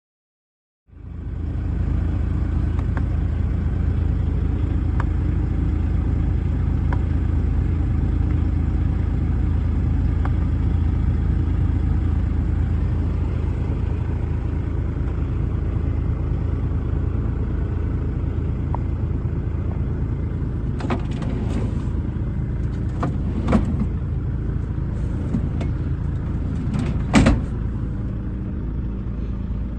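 DAF XF105.460 tractor unit's diesel engine idling steadily. Several sharp clicks and knocks come in the last third, the loudest near the end.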